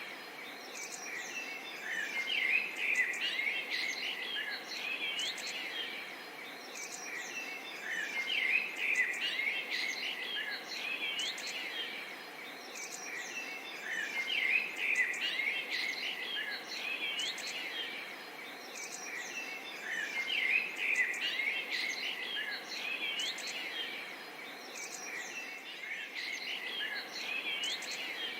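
A forest bird chorus: many birds chirping and calling over one another in quick, overlapping notes and short pitch sweeps. It swells and eases off about every six seconds.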